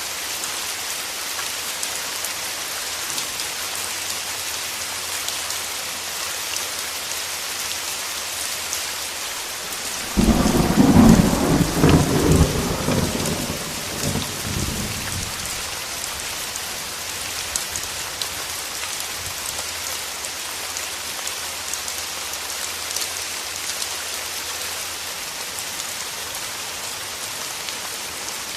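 Steady heavy rain falling on surfaces, with a sudden crack and rumble of thunder about ten seconds in that is the loudest event and dies away over about five seconds.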